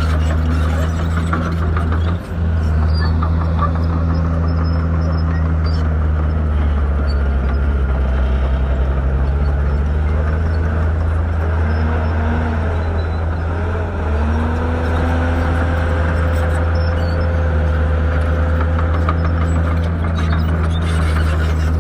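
Shantui bulldozer's diesel engine running steadily under work, its pitch shifting a little mid-way, with a brief dip about two seconds in.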